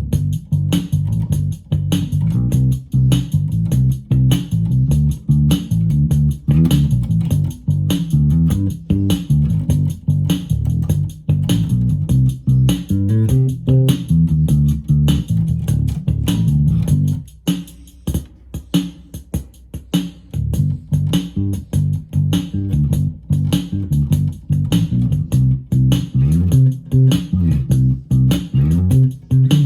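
Electric bass played through a Roland Micro Cube Bass RX amp, a loose improvised bassline over the amp's built-in rhythm box drum pattern. A little past the middle the bass drops out for a few seconds while the drum pattern keeps going, then the bass comes back in.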